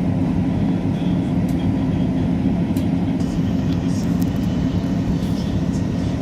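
Steady rumble and low hum of a train heard from inside the passenger carriage, with a few faint clicks.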